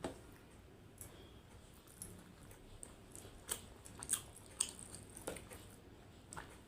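A person chewing food close to the microphone: irregular soft mouth clicks and smacks, a few sharper ones around the middle.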